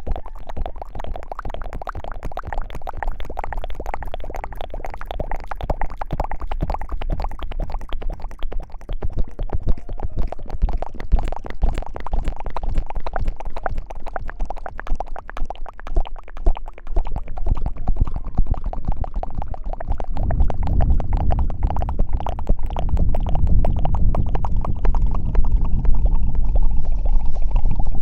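Close-miked ASMR rubbing and scratching on the microphone, a dense crackle with a low rumble that grows louder about two-thirds of the way through.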